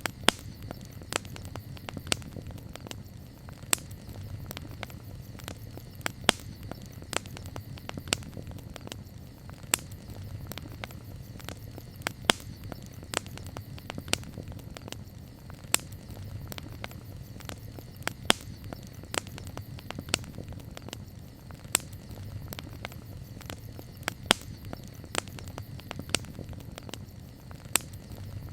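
Wood campfire crackling, with irregular sharp pops, the loudest every second or two, over a steady low rumble.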